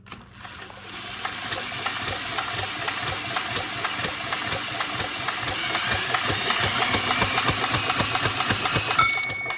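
A 10 hp Briggs & Stratton single-cylinder engine being turned over without firing, giving a steady, rapid mechanical clatter that builds up over the first second. Within it is a light knock, "not too loud", which the owner believes is not from the noisy valves; he suspects the camshaft or a tappet follower rather than the connecting rod or crankshaft.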